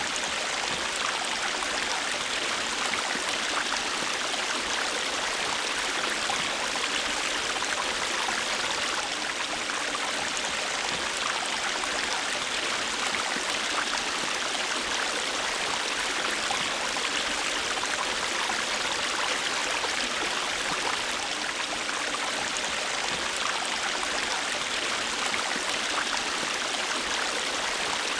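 River water flowing over rocks: a steady rushing and babbling that does not change in level.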